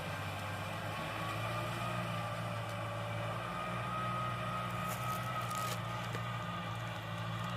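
Kubota tractor's diesel engine running steadily, with a faint high whine over it.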